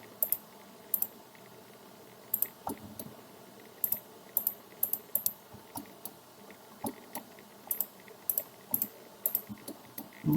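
Irregular clicks of a computer mouse and keyboard, about twenty short, sharp clicks, some in quick pairs, as lines are picked one after another in AutoCAD's trim command.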